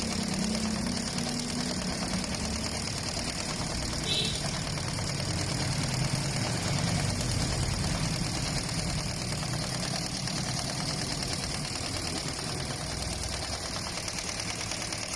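Computerized embroidery machine running steadily, its needle heads stitching in a rapid, even rhythm.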